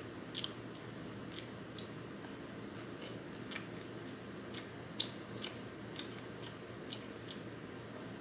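Chewing and crunching on food, with scattered sharp clicks, the loudest about five seconds in, over a low steady hum.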